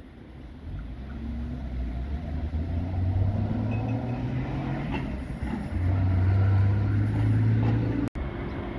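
Double-deck electric passenger train approaching, its motors running with a low steady hum that grows louder. The sound breaks off abruptly near the end.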